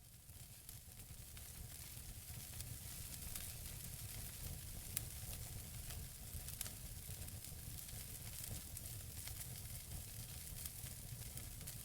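Wood fire burning in a fireplace: a steady hiss with frequent small crackles and snaps, a sharper pop about five seconds in and another a little later, over a low rumble. It fades in over the first couple of seconds.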